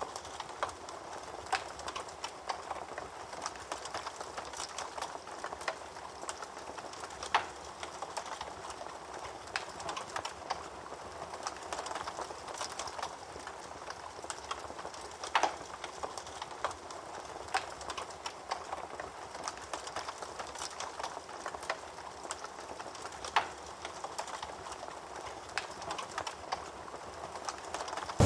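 Wood fire burning in a fireplace: a steady soft hiss of flames with irregular sharp crackles and pops from the burning wood, a few of them louder than the rest.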